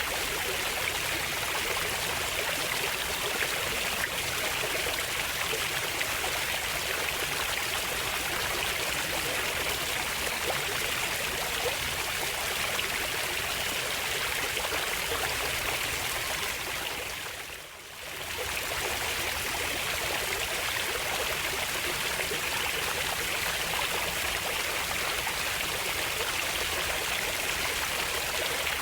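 Running water of a stream, a steady rushing flow that briefly fades down and swells back up about two-thirds of the way through.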